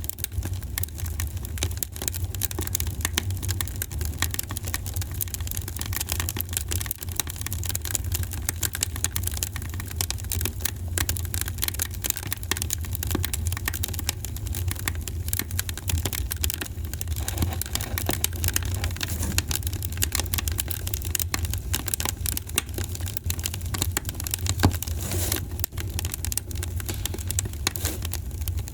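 Wood fire crackling in a fireplace: dense, irregular pops and snaps over a steady low rumble, with one louder pop near the end.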